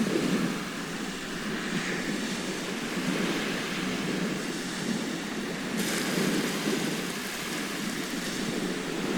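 Sea surf: waves washing onto a shore in a continuous rush that swells and eases every second or two.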